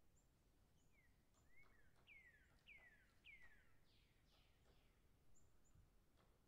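Very faint bird chirps: a run of quick descending whistles about half a second apart through the middle, with thin high peeps around them, over near silence.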